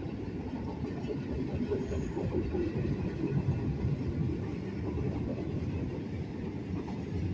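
Intermodal freight train's cars rolling past, a steady low rumble of wheels on rail.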